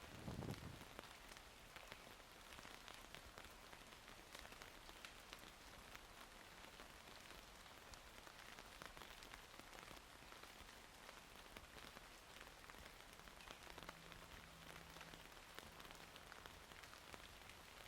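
Rain pattering steadily on surfaces, a dense patter of many small drops. There is a low thump right at the start, and a faint, steady low hum joins in about three quarters of the way through.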